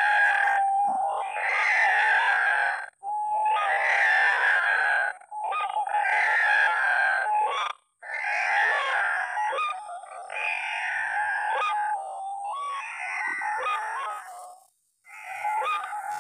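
White-breasted waterhen (ruak-ruak) calling: loud, harsh phrases of about two seconds each, repeated about seven times with short breaks between them.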